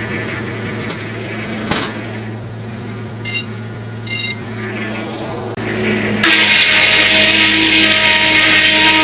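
Homemade circular sawmill running with a steady drive hum, with a click and two brief squeaks; about six seconds in, the blade bites into a log and the loud, steady sound of sawing takes over.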